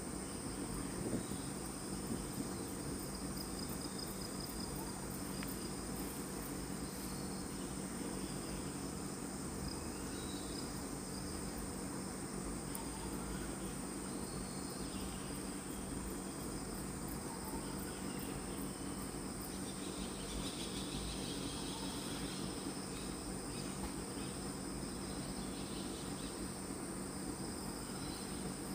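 Steady chorus of forest insects, a high continuous trill that does not let up, over a low, even background noise.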